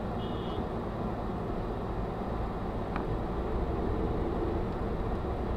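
Steady low rumble of a car driving: engine and road noise, with a faint tick about three seconds in.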